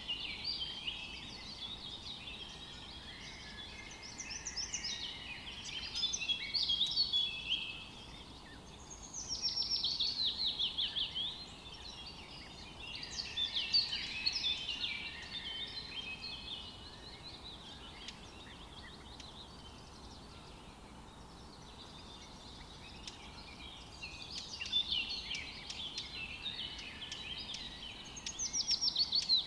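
Songbirds singing in a forest, several phrases of quick high notes coming every few seconds, with a longer quiet gap in the middle, over a faint steady background hiss.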